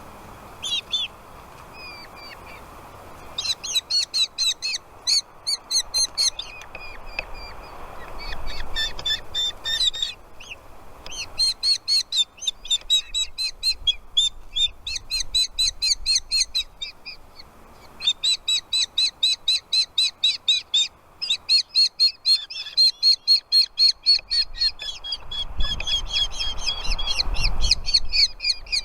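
Nestling birds giving shrill, rapid begging calls in long runs of about five calls a second, with short pauses between runs, as they are fed in the nest.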